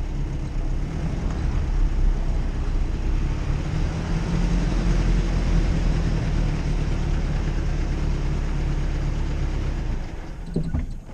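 Jeep Cherokee on the move off-road: a steady engine drone under loud road and wind noise, which dies down about ten seconds in.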